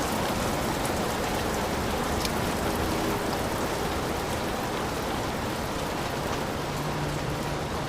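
Heavy rain pouring steadily, a dense even hiss with a few sharper drop ticks.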